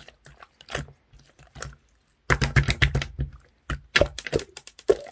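Clear slime mixed with crunchy 'ice parts' pieces being squeezed and pressed by hand, giving irregular crackling crunches and pops. A dense run of crunching comes a little before halfway, then single sharp snaps.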